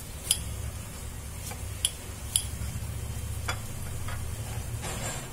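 Aloo tikkis (potato patties) shallow-frying in oil in a non-stick pan, with a soft sizzle over a steady low hum. About six sharp clicks are scattered through it.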